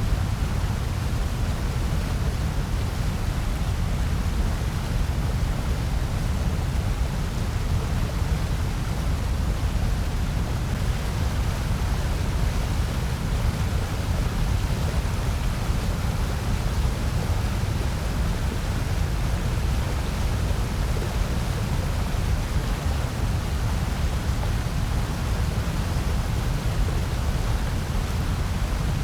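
Steady, unchanging generated noise track, strongest in the low end with a softer hiss above it, with no breaks or changes.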